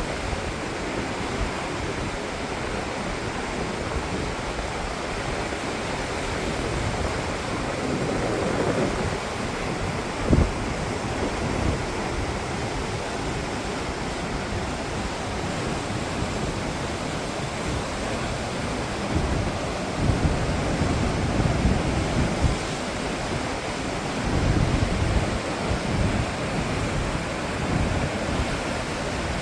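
Whitewater river rapids rushing steadily, with wind buffeting the microphone in gusts at times and a single thump about ten seconds in.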